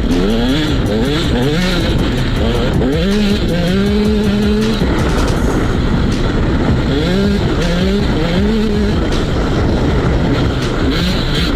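KTM SX 125 two-stroke single-cylinder engine revving on the move, its pitch climbing in a series of short rises as it pulls through the gears. It holds one steady pitch for about a second and a half in the middle, then climbs in quick rises again later on.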